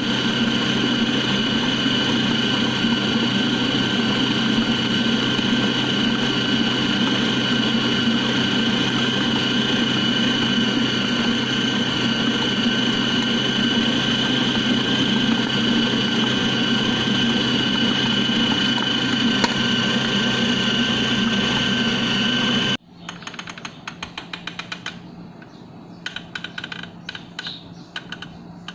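A small electric kitchen appliance motor running at a steady speed with a constant whine, cutting off suddenly about 23 seconds in. After it, quieter scattered clicks and taps.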